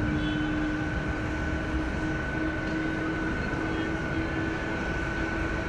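Jet airliner engines running steadily: a constant rush of noise with a steady whine held at one pitch.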